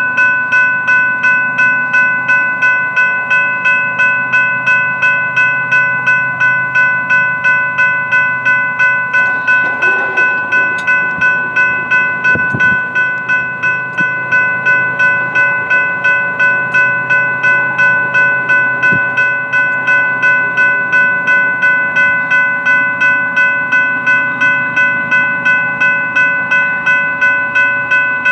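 Railroad grade-crossing warning bell ringing steadily at about two strikes a second, over the low rumble of a passing freight train.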